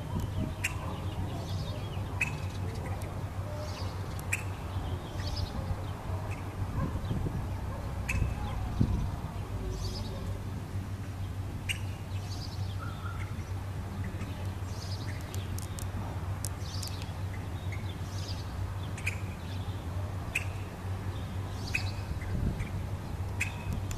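Birds chirping in short, high calls every second or two over a steady low hum.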